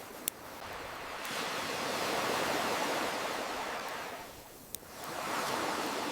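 Ocean waves washing in and drawing back: the surf swells to its loudest a couple of seconds in, falls away about four and a half seconds in, then surges again. Two sharp campfire crackles pop over it, one just after the start and one near the end.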